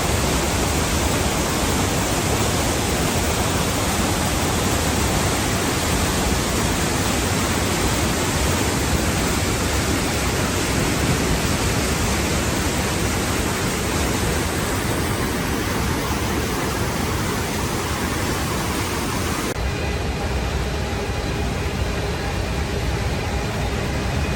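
Waterfall rushing in a steady, loud roar of falling water. About two-thirds of the way through it switches abruptly to a duller rush with a faint steady hum under it.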